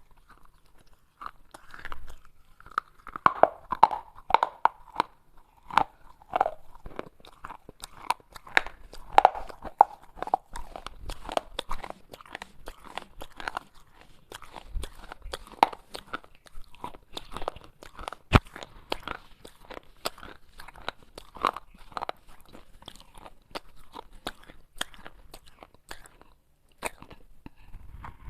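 Pieces of baked clay pot being bitten and chewed: a continuous run of sharp, dry crunches and cracks.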